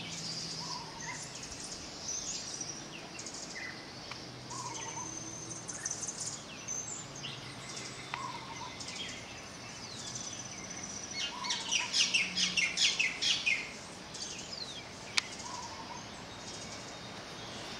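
Small birds chirping and twittering, with a loud run of rapid chirps about two-thirds of the way through and a short lower call repeating every three to four seconds, over a steady hiss of wind and surf.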